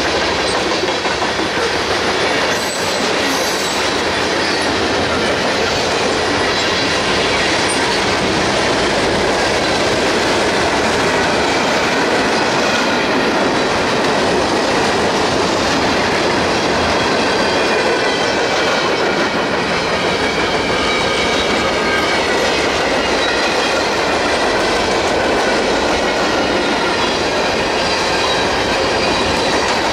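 Loaded freight cars of a passing train, tank cars and open-top gondolas, rolling steadily close by: a loud, even rumble of steel wheels on rail with clickety-clack over the rail joints. From about a third of the way in, a thin wavering squeal of wheels on rail rides on top.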